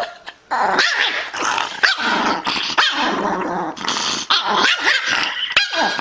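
A dog growling and barking almost without a break, starting about half a second in.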